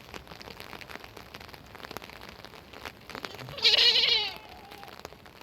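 A single loud, wavering bleat from a goat or sheep of the flock, lasting under a second, about three and a half seconds in. Faint scattered ticks and taps sound before and after it.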